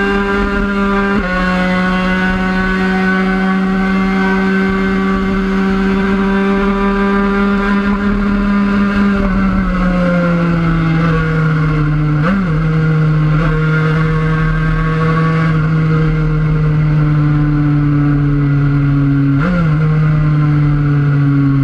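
Onboard sound of a 50cc race motorcycle's engine running at high revs under load. The pitch holds steady, then sags slowly from about ten seconds in, with two brief upward flicks around twelve and twenty seconds in.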